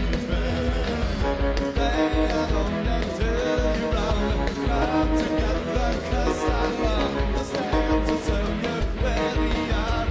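Live rock band playing loud, with electric guitars, bass and a steady drum beat.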